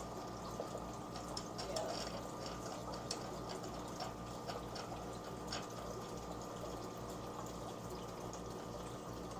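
Aquarium equipment running steadily: water moving through pumps and filters with a constant electric hum under it. Scattered light clicks and taps sound over it.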